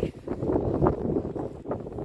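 Strong wind gusting across the microphone, an uneven low noise that rises and falls.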